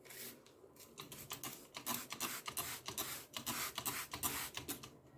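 Water being sprinkled over the soil in a disposable bowl of freshly sown methi seeds: a quick, irregular run of short spurts that stops shortly before the end.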